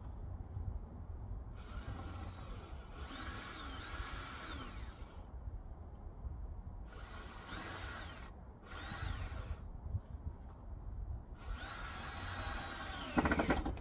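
Power drill driving screws in five short runs of one to two seconds, its motor whine rising and falling as it speeds up and slows. A loud knock comes near the end.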